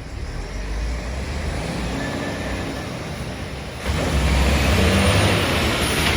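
A heavy truck passing on the road, its engine rumbling low and growing louder, with a sudden rise to a louder rush of engine and tyre noise about four seconds in as it comes by close.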